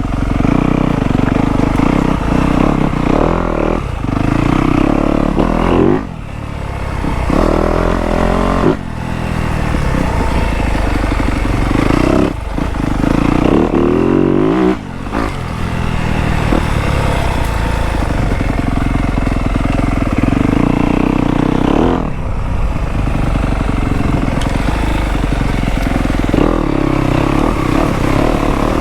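Off-road dirt bike engine running under load on a trail, its pitch dropping and climbing again several times as the throttle is rolled off and back on, mostly in the first half and once more about twenty-two seconds in.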